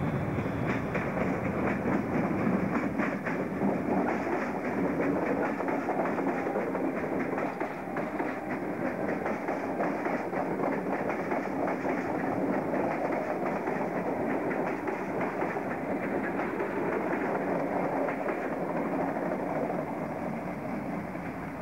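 Electric suburban train passing close by, with a steady rumble and wheels clacking over the rail joints. The clacking is thickest in the first few seconds.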